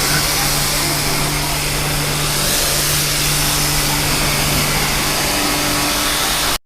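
A vehicle's engine running at a steady speed, a constant low hum under loud rushing wind and road noise. It cuts off suddenly near the end.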